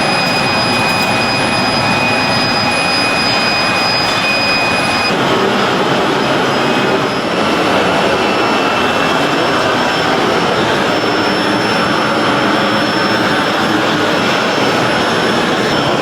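Steady, loud rushing noise of factory machinery, with a thin high whine that stops about five seconds in, where the noise changes character.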